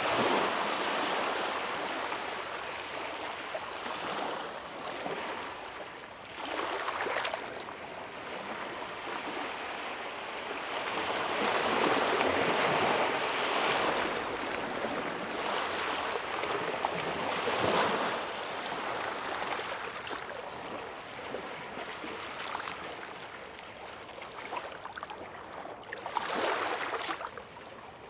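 Ocean waves breaking and washing ashore in repeated surges that swell and ebb, loudest around the middle, with a last surge just before it falls quieter at the end.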